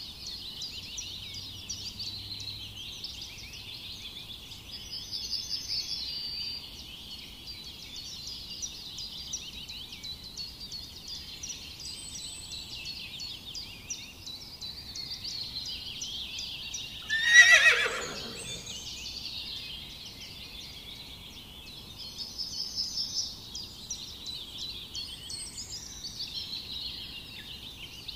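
A continuous high chorus of rapid chirping, with one loud animal call about halfway through that slides steeply down in pitch over a second and a half.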